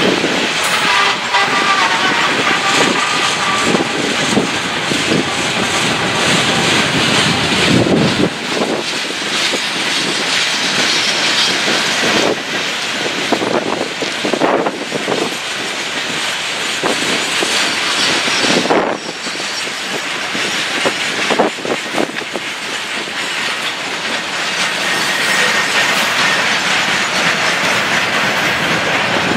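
Norfolk Southern freight train's open hopper cars rolling steadily past, wheels clicking over rail joints with the rumble and rattle of the cars.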